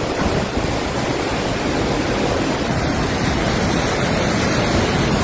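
Floodwater rushing in a steady, loud, unbroken roar of noise.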